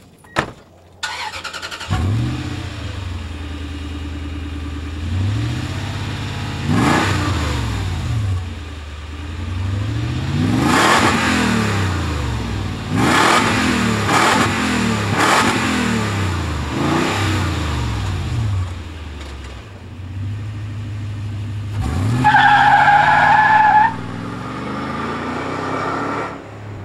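A 2004 Toyota Tundra's engine, breathing through a Flowmaster 40 Series aftermarket exhaust, starts about two seconds in, then idles and is revved several times, each rev rising and falling. Near the end, a loud steady high tone lasts for about two seconds.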